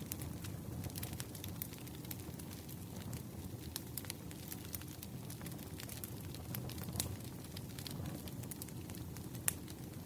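Wood fire crackling: irregular sharp pops and snaps over a low steady rumble, with one louder snap near the end.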